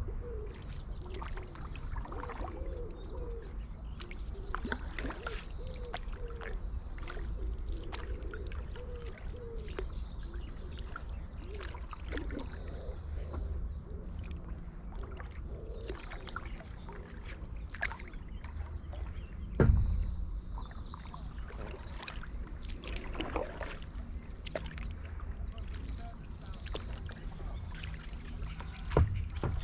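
Paddle strokes in canal water from a stand-up paddleboard: repeated splashes and drips over a low steady rumble. Two sharper knocks, one about two-thirds of the way in and one near the end.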